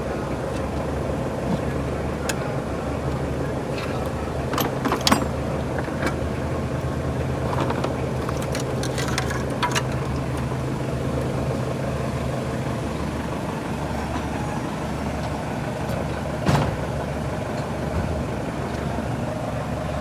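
Toyota GLi's engine idling steadily, with a few sharp metallic clinks now and then, loudest about five seconds in and again past sixteen seconds. The car is in for a tappet noise problem.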